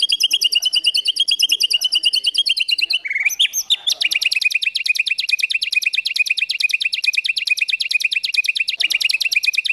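Small songbird singing a fast rapid-fire trill of high, sharp chirps at about ten notes a second. A little after three seconds a brief swooping phrase breaks in, and then a second long run of chirps follows.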